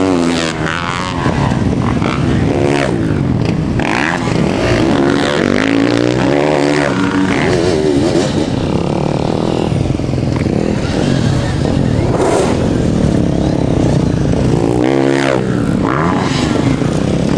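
Dirt bike engines revving, their pitch climbing and dropping again and again, with more than one engine heard at times.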